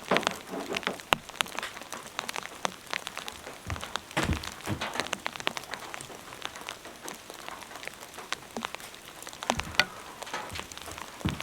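Heavy rain with large drops pattering and dripping irregularly, with a few louder dull thumps about four seconds in and near the end.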